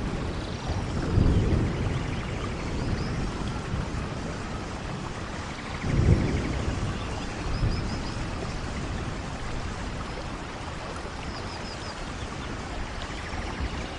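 Rainforest thunderstorm: steady heavy rain with low rolls of thunder about a second in and again around six seconds, the rumble easing off toward the end. A few faint high chirps sound through the rain.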